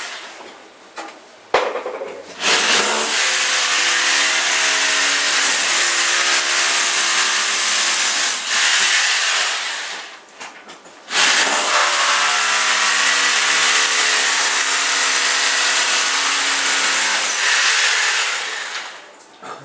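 A power tool running in two long stretches of about seven to eight seconds each, with a short pause between them. A steady motor tone sits under a loud hiss. A sharp click comes just before the first run.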